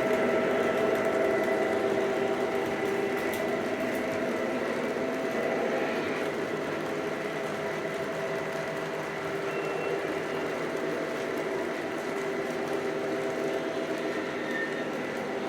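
Lionel Legacy O-gauge E6 diesel locomotive model running on track: a steady mechanical whir of motors and wheels under the onboard diesel engine sound, easing slightly quieter over the first several seconds.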